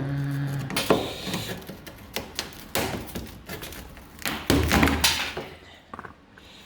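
A steel lever bar prying and scraping old body filler out of a car's rusty rear wheel arch, with irregular knocks, taps and thuds and a louder scraping, cracking stretch about two-thirds of the way through.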